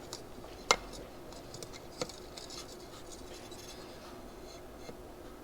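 Small metal carburetor parts being handled and probed, with faint scratching and two sharp clicks, about a second apart near the start, the first the louder.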